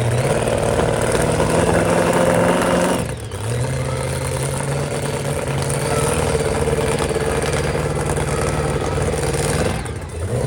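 Monster truck engine held at high revs under throttle. It drops off sharply about three seconds in, comes back up and pulls steadily, then eases off near the end.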